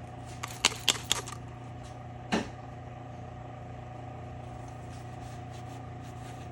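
Steady hum of a belt grinder's electric motor running, with a few short sharp clicks about a second in and another brief stroke a little after two seconds, from handling the freshly sharpened knife.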